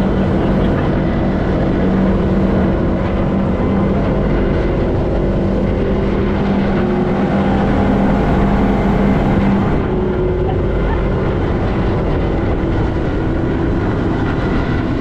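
Fishing boat's engine running steadily at speed under way, a constant hum over a dense rush of noise. The note eases slightly about ten seconds in.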